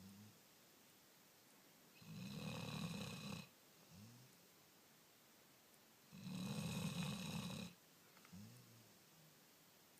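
A sleeping dog snoring: two long snores about four seconds apart, each lasting about a second and a half, with a shorter, softer breath sound between them.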